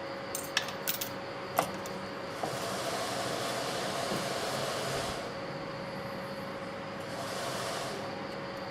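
A steady hum and airy hiss, like a small electric blower or fan running, swelling louder twice; a few sharp clicks come in the first two seconds.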